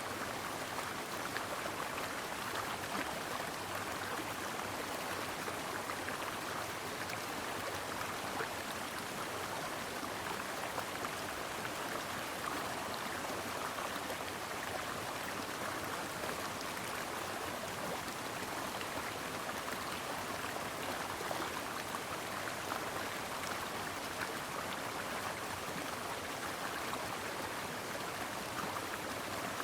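A brook flowing steadily: an even, unbroken rush of running water.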